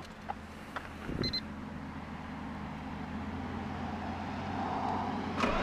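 Nissan R32 Skyline GT-R just before its engine is started: a steady low hum that slowly grows louder, with a short beep about a second in and starter cranking beginning at the very end.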